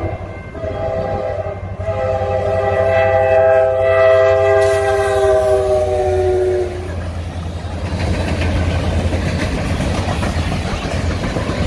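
Canadian National diesel freight locomotive's air horn sounding for a grade crossing: a short blast, then a long blast whose pitch slides down as the locomotive passes, cutting off about seven seconds in. The freight cars then roll by with a steady rumble and the clickety-clack of wheels on rail joints.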